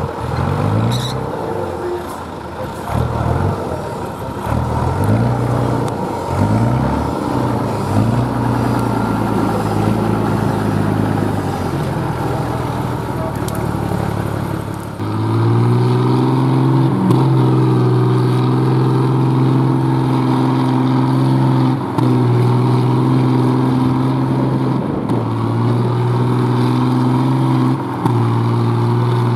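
Competition truck's engine revving up and down repeatedly, then held at steady high revs from about halfway, with two brief dips.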